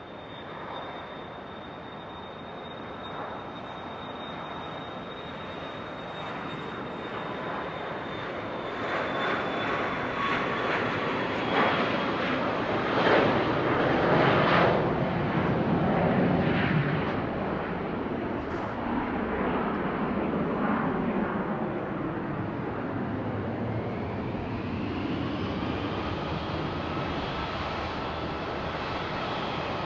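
Jet aircraft engines passing at the airfield: a high whine that slowly falls in pitch while the engine noise builds to its loudest about halfway through, then eases off, with a rising whine near the end.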